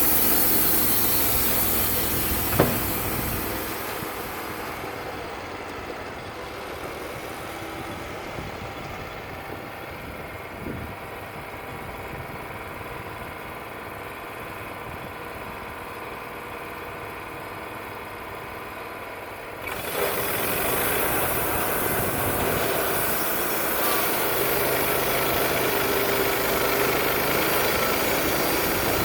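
Wood-Mizer LT35 portable sawmill's engine running. It eases down over the first few seconds to a steady idle, with one sharp click about two and a half seconds in. Just before twenty seconds it suddenly comes up loud again and keeps running at that level.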